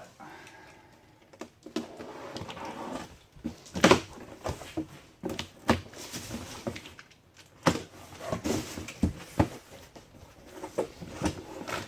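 Generator accessory kit box being opened and its contents handled: rustling cardboard and plastic packaging with scattered knocks and clicks, the loudest knock about four seconds in.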